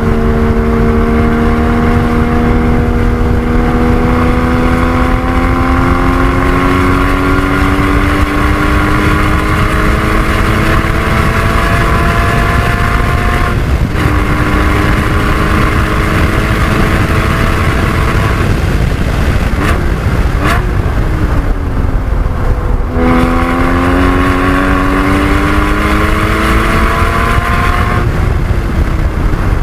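Porsche 981 Cayman GT4's 3.8-litre flat-six pulling hard under load through long climbs in revs, with an upshift about halfway through and another near the end. About two-thirds through it eases off and the revs fall before it pulls again, all under heavy wind and road rumble inside the car.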